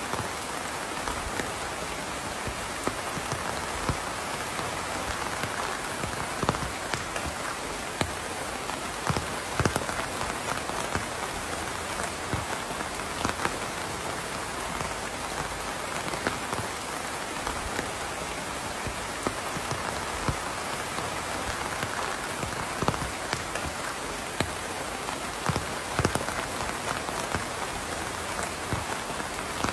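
Steady rainfall, with scattered louder drops landing close by as sharp ticks over the even hiss of the rain.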